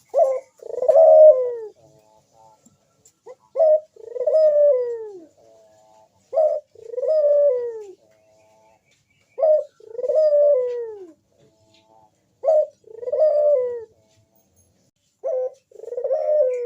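Crossbred puter dove cooing over and over: six calls about three seconds apart, each a short sharp note followed by a longer coo that falls in pitch.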